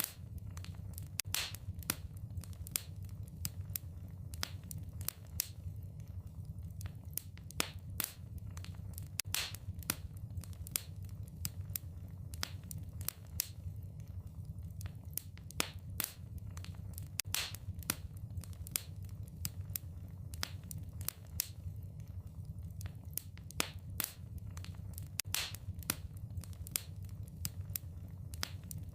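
Wood fire in a fireplace crackling and popping: irregular sharp pops at uneven intervals over a steady low rumble.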